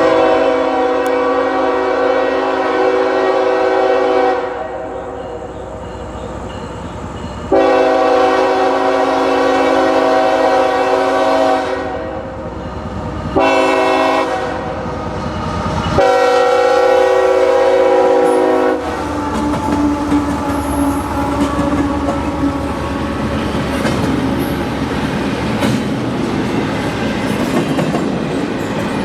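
CSX freight locomotive's air horn sounding long, long, short, long, the grade-crossing warning, followed by the train rolling past with wheels clattering over the rail joints.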